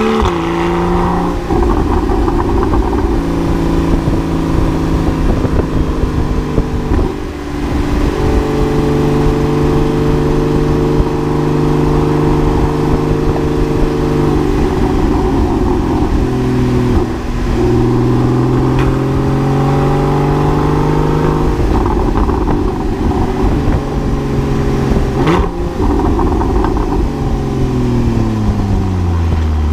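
Porsche 981 Cayman's flat-six engine through a SOUL Performance valved exhaust, driven through the gears. The engine note climbs, holds steady while cruising, drops at several gear changes, and falls away near the end as the car slows.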